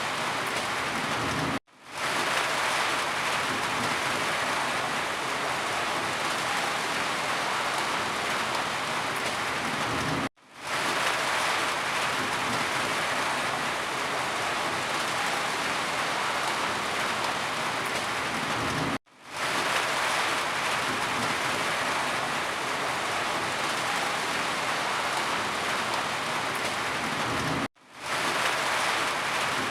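Steady rain with an even hiss. It cuts out for a split second and fades back in four times, about every nine seconds.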